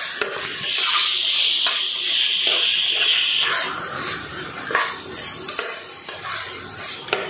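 Onion-tomato masala frying in oil in a steel pot while a metal spatula stirs and scrapes it, with a few sharp scrapes and clicks against the pot. A steady high sizzling hiss runs from about a second in to about three and a half seconds.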